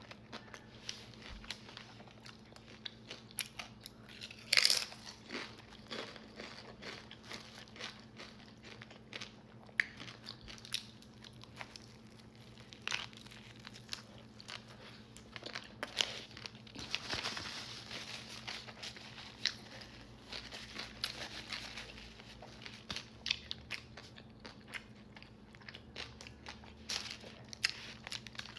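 Close-up eating sounds: irregular crunchy bites and chewing of Korean food, with sharp crackles coming every second or so.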